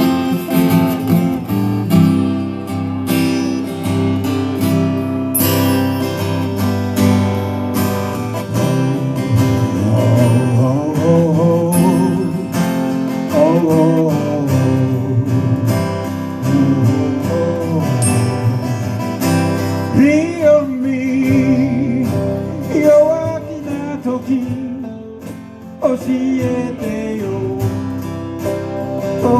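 Live acoustic guitar music, strummed, with a voice singing over it.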